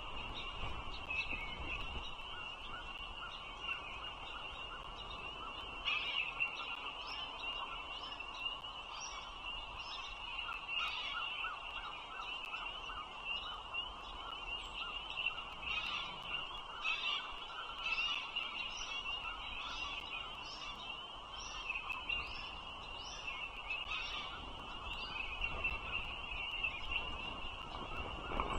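Bald eagle chicks in the nest giving rapid, high-pitched peeping calls, in clusters through most of the stretch, over a steady high-pitched background chorus.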